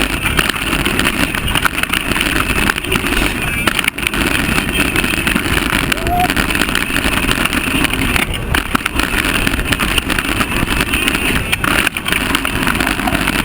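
Steady rush of wind over a mountain bike rider's camera microphone at speed on a trail descent, mixed with tyre and trail rumble.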